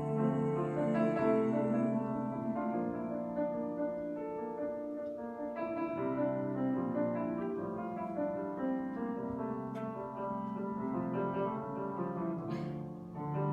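Grand piano playing an instrumental interlude alone, a flowing run of chords and melody notes.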